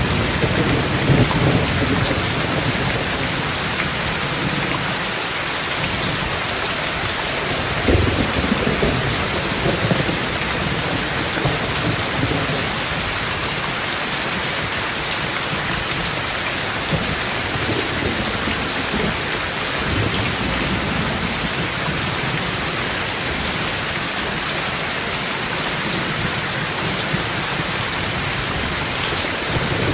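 Rain falling steadily in a thunderstorm, with low rolls of thunder, strongest near the start and again about eight seconds in.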